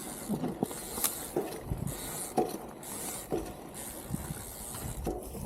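Strong wind buffeting the microphone in gusts, with scattered small clicks and knocks.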